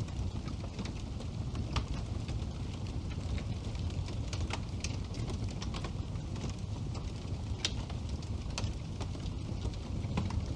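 Wood fire burning steadily in a fireplace, with a low rumble and sharp, irregular crackles and pops from the burning logs.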